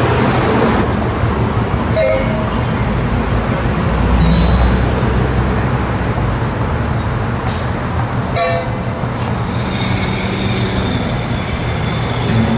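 Steady traffic-like vehicle noise with a heavy low rumble, as heard during a bicycle ride.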